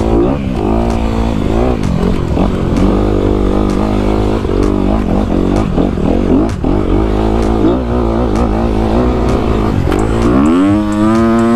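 Dirt bike engines running, the revs rising and falling again and again over a steady low rumble; about ten seconds in the revs climb and hold higher.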